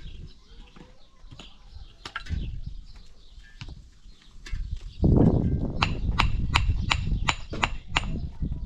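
Sharp knocks, a few scattered at first, then an even run of about three a second in the second half, over a low rumbling noise.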